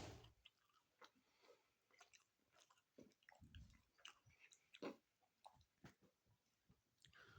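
Faint close-up chewing of a sandwich: soft wet mouth smacks and clicks, with a dull low thump about halfway through.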